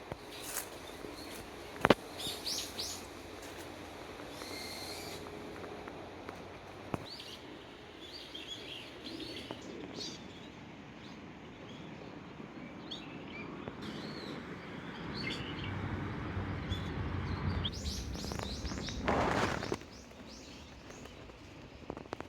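Wild birds chirping and calling repeatedly in short, high notes, with a sharp click about two seconds in. In the last third a louder rushing noise swells and then cuts off suddenly.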